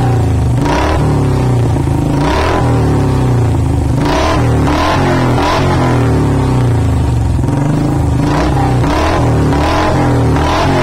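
Royal Enfield Bullet Electra's single-cylinder four-stroke engine running through an aftermarket exhaust silencer, idling with its low beat and blipped on the throttle about nine times in short bursts, mostly in quick runs of three or four.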